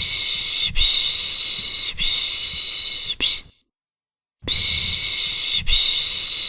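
A person shushing, 'shhh, shhh, shhh, sh', the 'piş piş' sound used to soothe a baby to sleep. The long hissing strokes last about a second each, the last one is short, and a pause of about a second follows, halfway through. The same run then starts again, as a repeating loop.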